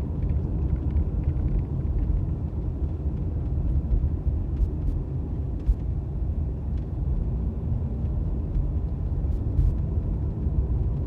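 Car driving slowly, a steady low rumble of engine and tyre noise, with a few faint clicks.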